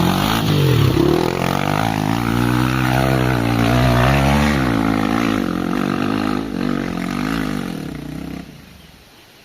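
Hero Xpulse 200 single-cylinder dirt bike engine revving hard on an uphill climb, its pitch rising and falling with the throttle. It drops away about eight and a half seconds in.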